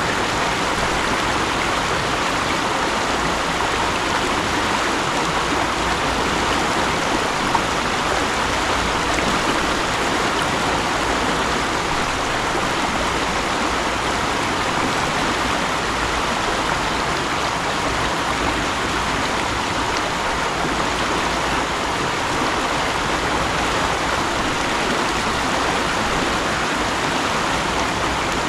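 Mountain stream flowing steadily, a constant rush of water over rocks.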